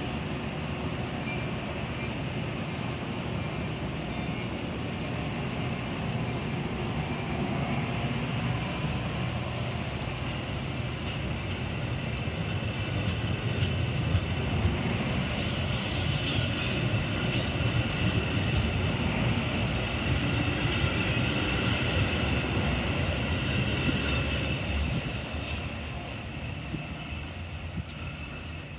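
Metra commuter train running on the rails: a steady rumble with a high wheel squeal that grows louder partway through, and a short hiss about fifteen seconds in. The sound fades toward the end.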